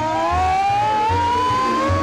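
A siren wail rising slowly in pitch and levelling off near the end, over low pulsing bass notes of the cartoon's music.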